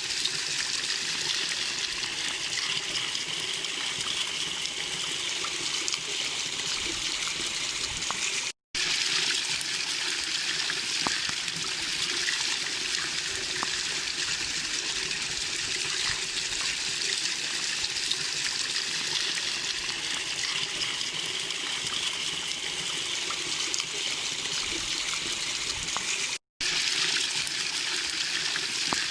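Small waterfall: steady rushing and splashing of falling water. It cuts out for a split second twice.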